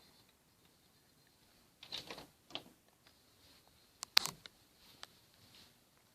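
A few scattered clicks and rustles of handling in a small room, with the sharpest click about four seconds in.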